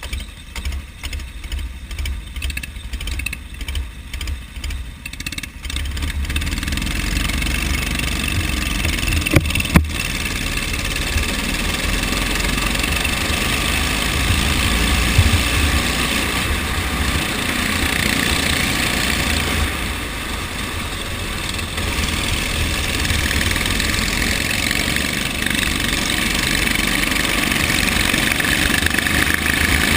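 Go-kart engines running during a race, choppy at first, then rising and staying loud from about six seconds in as the karts speed up. Two sharp knocks just before ten seconds.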